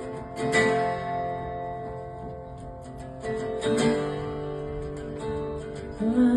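Guitar chords strummed and left to ring, with a fresh chord struck about half a second in and another about three and a half seconds in. A new, louder note comes in near the end.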